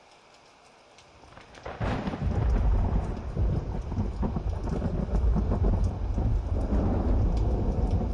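Thunderstorm: faint rain, then about a second and a half in a clap of thunder breaks in and goes on as a long, deep, loud rumble, with crackling over it.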